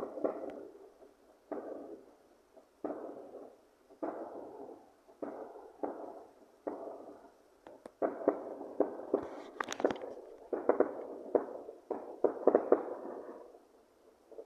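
A series of distant explosion bangs, each with a sharp onset and an echoing tail. They come about once a second at first, then faster and louder from about eight seconds in, and stop about a second before the end.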